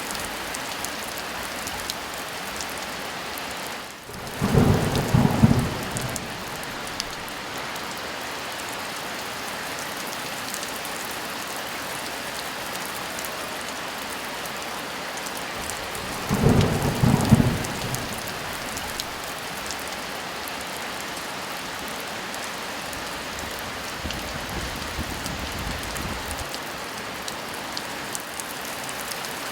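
Steady heavy rain, broken twice by short, loud claps of thunder, the first about four seconds in and the second about sixteen seconds in. A fainter low rumble follows near the end.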